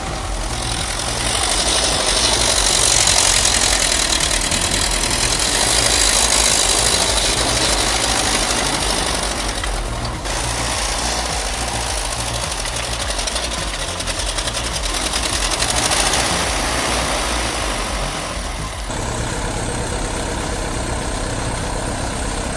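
Diesel engine of heavy earthmoving machinery running steadily under work, the sound changing abruptly twice as one clip gives way to another.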